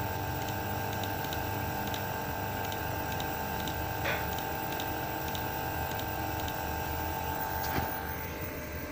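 A small machine hums steadily with a few constant tones, and a faint, regular ticking comes about twice a second. Short clicks sound about four seconds in and again near eight seconds.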